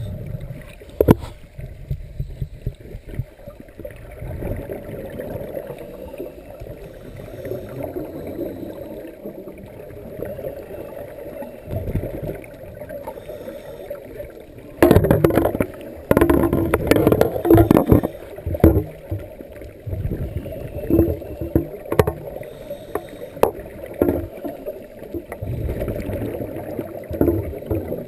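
Scuba diver's exhaled bubbles rumbling and gurgling out of the regulator, heard underwater, in irregular surges; the loudest surge lasts a few seconds just past halfway through.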